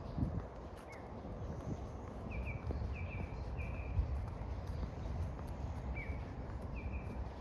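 Outdoor park ambience: a small bird chirping in short runs of quick, slightly falling notes, twice, over a steady low rumble.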